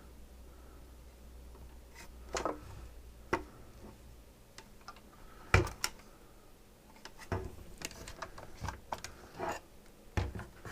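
Scattered clicks and knocks of a SodaStream's plastic parts being handled during disassembly, with a few short scrapes and one sharper knock a little past halfway.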